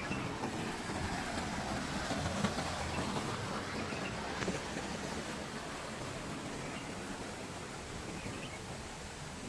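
Steady outdoor ambience: an even rushing background noise with no distinct events.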